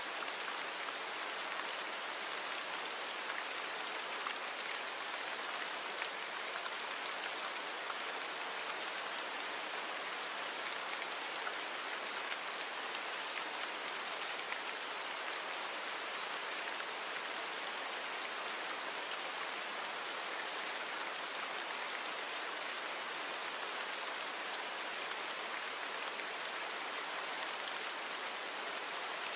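Steady rain falling, a dense even hiss of drops with fine pattering ticks, unchanging throughout.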